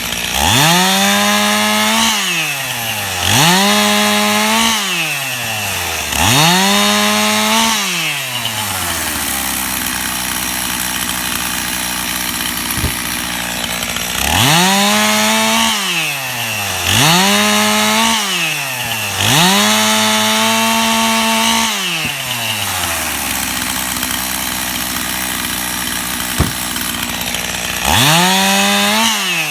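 Stihl two-stroke chainsaw cutting limb wood: the engine climbs to full throttle, holds about a second through each cut and drops back to idle, seven times in all, in two runs of three close together and once more near the end.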